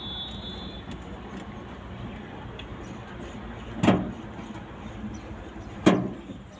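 Two hard hammer blows on the truck cab's sheet metal during dent repair, about two seconds apart, each ringing briefly, over a steady background noise.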